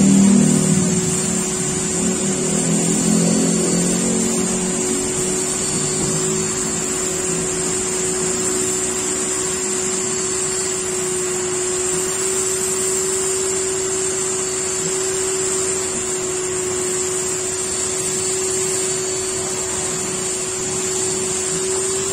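Car-wash machine's electric motor running steadily: a constant hum with a high hiss over it.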